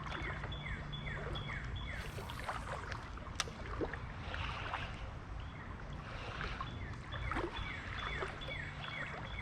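Creek water running steadily, with a bird singing a fast series of short falling notes, about three a second, at the start and again near the end. A single sharp tick comes about a third of the way in.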